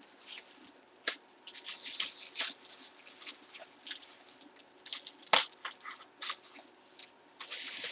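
Hands handling packaging: irregular crinkling, rustling and tearing with scattered sharp clicks, the loudest click about five and a half seconds in.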